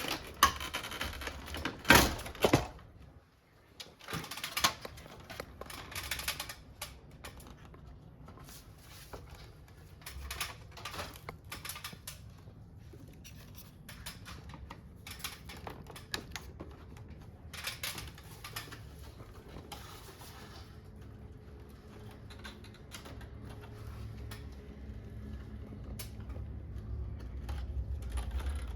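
Irregular clicks, knocks and rattles of air conditioner parts being handled and taken apart, with a louder knock about two seconds in.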